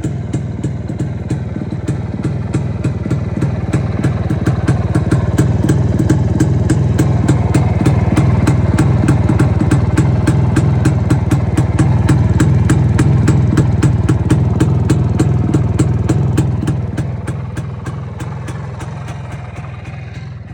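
IZh motorcycle's two-stroke engine idling, the exhaust beating in an even, rapid pulse. It grows louder over the first few seconds and dies down over the last few.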